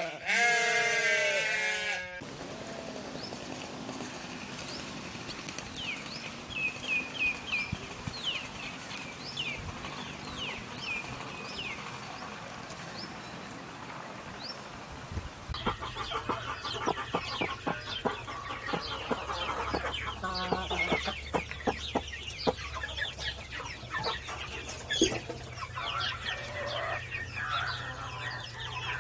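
A sheep bleats for the first two seconds. A stretch of quick, high chirps from small birds follows. From about halfway, chickens cluck, with short clicks and wing flaps mixed in.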